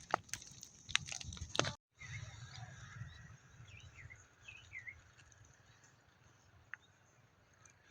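Burning maize stalks crackling with sharp pops for the first couple of seconds. After a cut, a low steady rumble follows, with a few short bird chirps.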